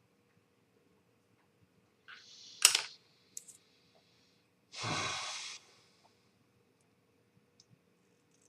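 A person sighing: a quick breath in with a sharp click about two and a half seconds in, then a long breath out about five seconds in.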